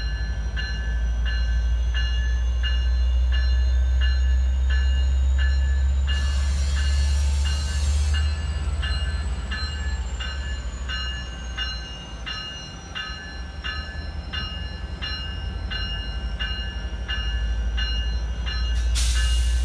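Low steady rumble of an Amtrak passenger train's diesel locomotive, with a bell ringing about twice a second. Two short bursts of hiss, about six seconds in and near the end.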